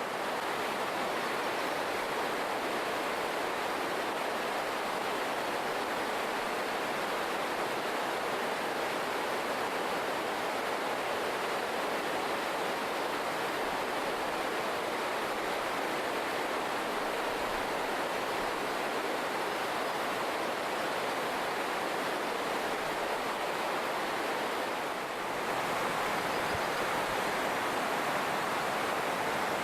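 Steady rushing noise with no distinct events, dipping briefly about 25 seconds in and coming back slightly louder.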